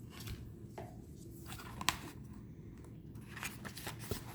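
Faint rustling and light tapping of tarot cards being handled and laid down, with one sharper click a little under two seconds in.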